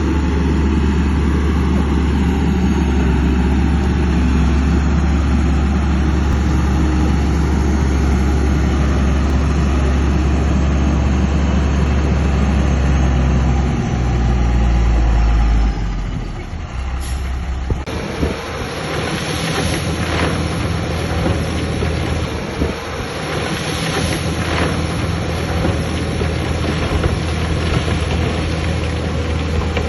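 Heavy diesel engine of earthmoving machinery running with a deep, steady hum. About halfway through the hum drops away and gives way to a rougher engine sound with scattered knocks and clatter.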